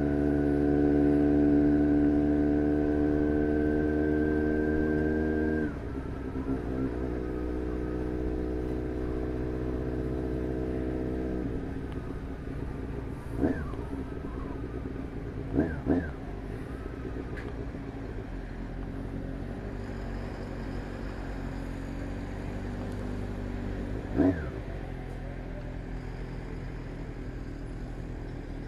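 Motorcycle engine heard from the rider's seat, running steadily under throttle, then easing off sharply about six seconds in and again around eleven seconds. It runs lower after that, with a few quick revs that rise and fall in the middle and once more near the end.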